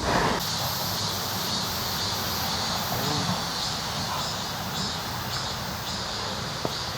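Outdoor ambience: a steady low rumble with a faint high-pitched insect chirp repeating about twice a second.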